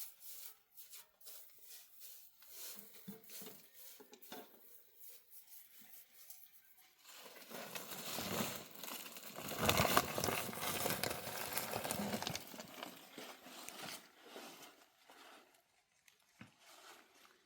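Faint scattered rustles and clicks, then a crinkling, pattering rush that builds about seven seconds in, is loudest around ten seconds, and dies away a few seconds later.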